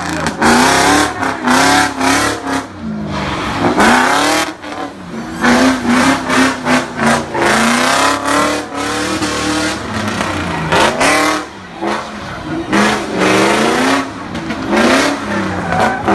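Drift car engine revving hard, its pitch climbing and dropping again and again as the throttle is worked.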